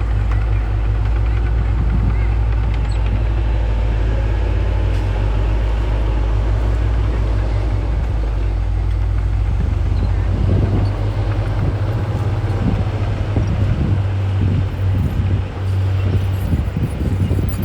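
Heavy diesel earthmoving machinery running steadily with a deep, constant engine drone. About ten seconds in, the engine note shifts and uneven clattering joins it.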